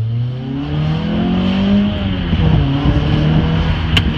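2004 Toyota Celica's four-cylinder engine accelerating hard in a manual gearbox, heard from inside the cabin. Its pitch climbs for about two seconds, drops at an upshift, then runs lower and starts rising again. A sharp click comes near the end.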